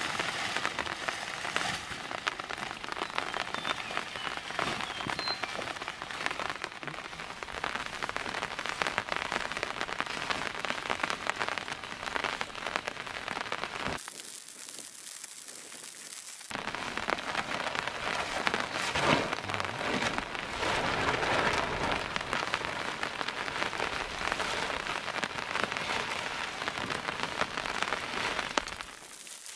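Heavy rain falling steadily, a dense hiss of many drops. About halfway through it briefly thins out and goes quieter for a couple of seconds, then comes back at full strength.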